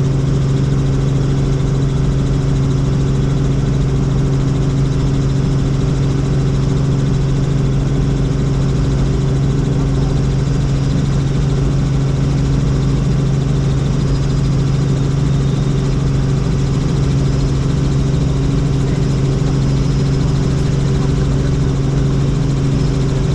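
Helicopter running in flight: a steady, unchanging drone with a strong low hum from its engine and rotors.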